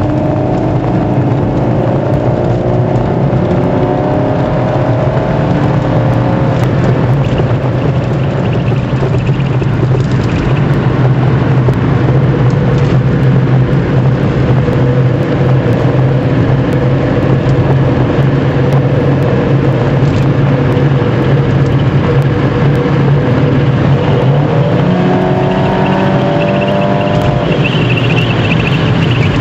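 Pontiac Sunfire GT's 2.4 L twin-cam four-cylinder engine heard from inside the car on the move. It pulls up through the revs over the first few seconds, then runs steadily at cruise, and revs up again about 25 seconds in.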